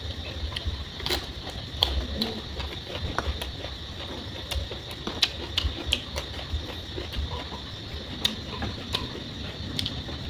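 Close-up eating sounds: a person chewing a spoonful of rice and raw vegetables dipped in minced-pork prahok, with irregular sharp clicks from the mouth and spoon.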